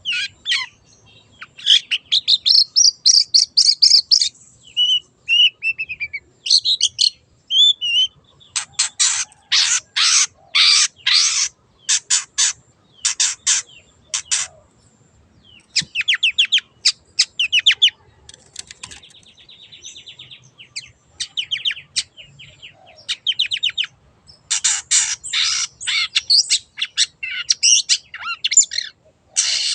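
Long-tailed shrike (cendet) singing a fast, varied song: bursts of rapid harsh notes and rolls, a few short falling whistles and a buzzy trill, broken by brief pauses.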